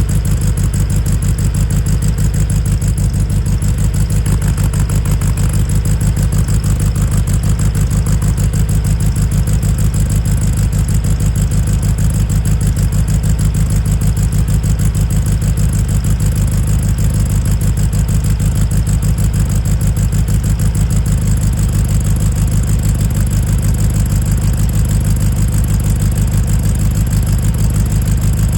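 A 1963 VW Beetle's air-cooled flat-four engine idling steadily with an even, rapid pulse. It is warming up after a cold start, having sat out overnight.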